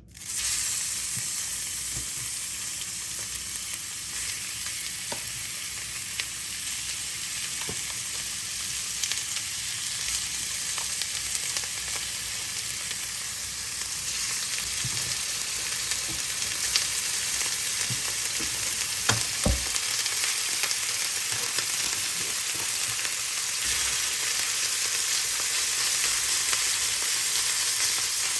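Food frying in a hot pan: a steady sizzle that starts suddenly, with scattered light clicks and taps and one heavier knock about two-thirds of the way through.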